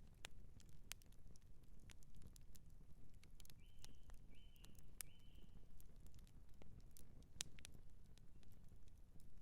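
Outdoor campfire crackling: irregular sharp pops and snaps of burning wood over a low, steady rumble. About halfway through come three short, high chirps in quick succession.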